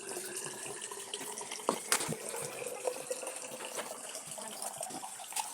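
Kitchen tap running water into the sink during dishwashing, with a couple of sharp clinks of dishes about two seconds in.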